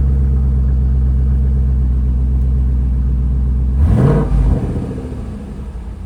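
Ford Mustang GT's 5.0 Coyote V8, through a Borla exhaust, running with a steady low burble shortly after a cold start. About four seconds in comes one short rev, a quick rise in pitch, and after it the engine runs quieter.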